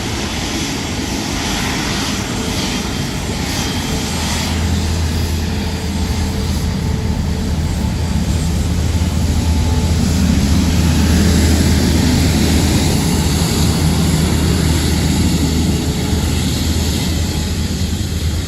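Airbus A350 jet engines (Rolls-Royce Trent XWB) running, a steady deep rumble with hiss that grows gradually louder toward the middle and then holds.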